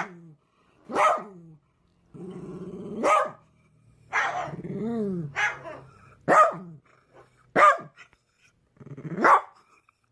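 A dog barking about eight times, spaced a second or so apart, with low growling leading into some of the barks.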